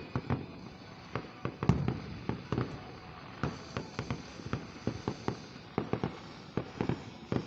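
Aerial fireworks shells bursting overhead in a rapid, irregular series of booms and bangs, several a second, with one louder bang about a second and a half in.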